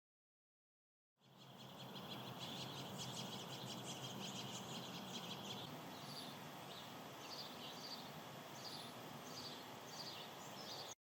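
Faint birdsong over a low outdoor hiss, starting after a second of silence: a steady high trill at first, then a run of short high chirps about twice a second.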